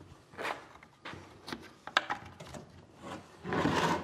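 Wooden workpieces being handled on the bench: several light knocks, then a short scraping rub of wood on wood near the end.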